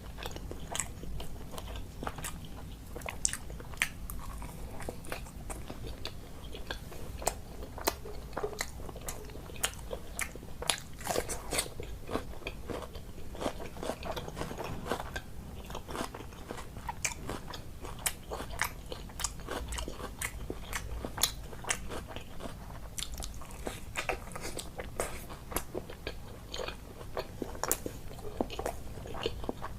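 A person eating close to the microphone: chewing and biting mouth sounds, a dense run of small sharp clicks and smacks.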